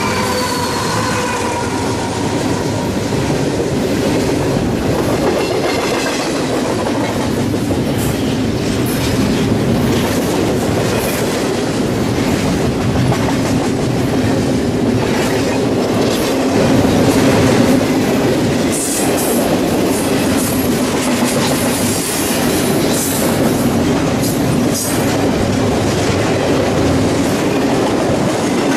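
CSX double-stack container freight train passing close by at speed: steady rumble of the cars with wheels clacking over rail joints. A locomotive horn note dies away in the first second, and brief high-pitched wheel squeals come in the later part.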